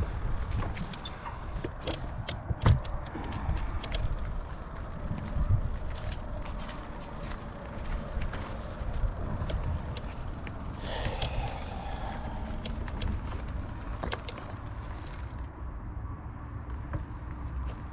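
Bicycle rolling over rough ground: a steady low tyre rumble with scattered rattles and clicks from the bike.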